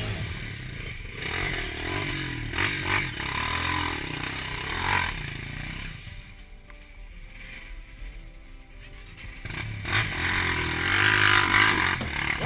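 Off-road trail motorcycle engine revving, its pitch rising and falling, dropping quieter for a few seconds in the middle before picking up again near the end.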